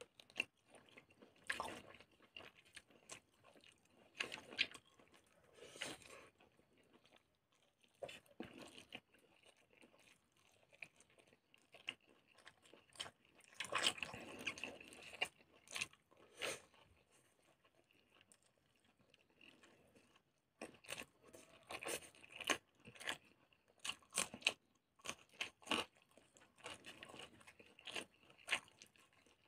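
A person chewing and biting cooked pork intestine with rice close to the microphone, with irregular wet mouth clicks and crunches.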